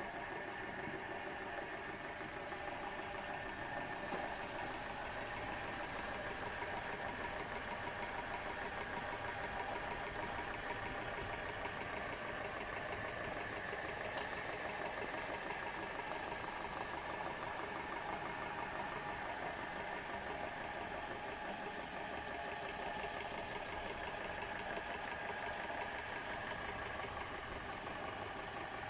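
Small model engine running steadily with a fast, even mechanical clatter.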